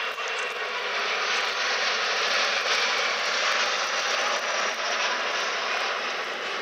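Alpha Jets passing overhead: a steady jet roar that swells to its loudest about two to three seconds in, then eases slightly.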